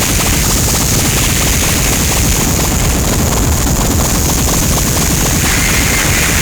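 Loud, steady wall of noise with a deep rumble underneath and a hiss on top, without a break.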